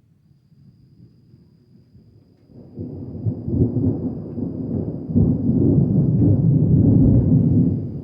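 Deep thunder rumbling: it starts faint, swells sharply about two and a half seconds in, and rolls on loudest through the second half before beginning to die away at the end.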